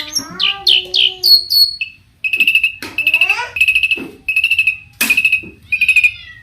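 Long-tailed shrike (cendet) in full, varied song: a run of quick falling whistled notes, then a string of short, rapid rattling phrases at one steady high pitch, mixed with sweeping glides.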